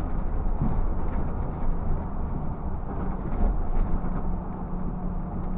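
Scania bus cabin noise while driving: a steady low rumble from the engine and road, with light rattles. A steady hum joins in about halfway through.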